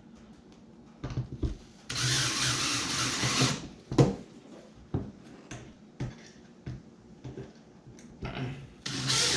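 Power drill running in two bursts, turning stainless steel screws into a seat mount, with a sharp click between them.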